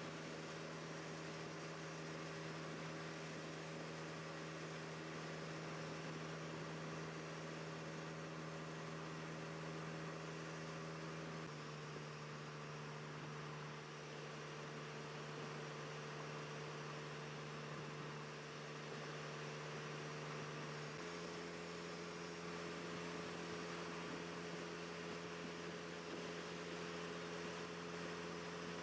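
Vehicle engine drone running at a steady speed over a steady hiss. The drone's pitch jumps abruptly twice, about a third of the way in and again about two-thirds in.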